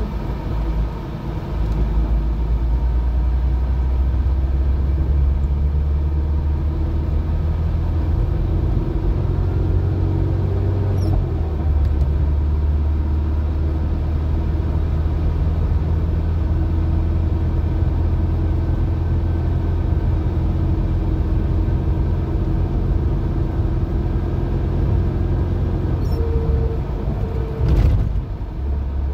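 Alfa Romeo 75 being driven, heard from inside the cabin: a steady low engine and road drone. Its pitch shifts about eleven seconds in, and the sound breaks briefly near the end.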